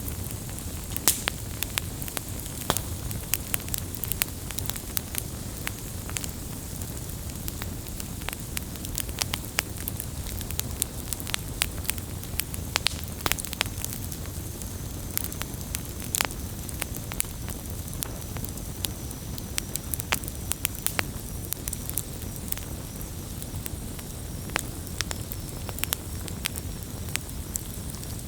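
Bonfire of burning wood, crackling and popping at irregular moments over a steady low rush of flame. A faint high whistle comes in about halfway through.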